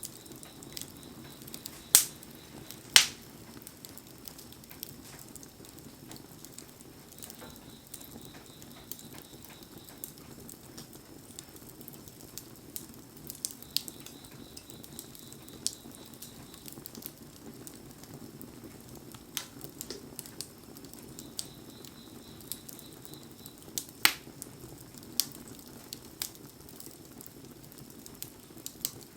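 Wood bonfire crackling, with sharp pops of burning wood, the loudest about 2 and 3 seconds in and again near the end, and many smaller ticks between, over a steady low hiss.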